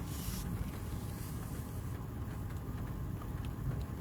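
Steady low rumble of an idling vehicle heard from inside the cab, with a brief hiss at the very start.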